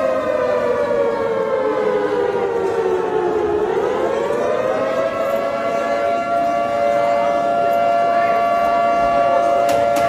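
Siren wailing: a steady pitched tone that slides down over the first three and a half seconds, climbs back, and holds level to the end.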